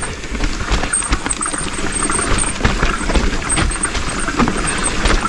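Trek Slash 8 full-suspension mountain bike rolling fast down a rough, wet trail: tyres knocking over rocks and roots and the bike rattling in quick, irregular clacks over a steady low rumble.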